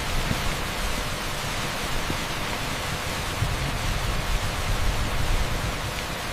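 Torrential rain pouring down on a street: a dense, steady hiss with a deep rumble underneath.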